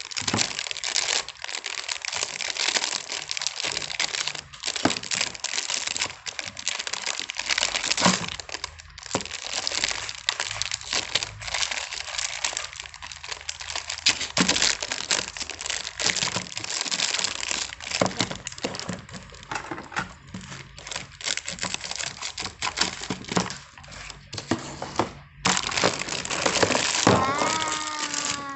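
Plastic packaging crinkling and rustling as it is handled and opened by hand, with many small sharp crackles.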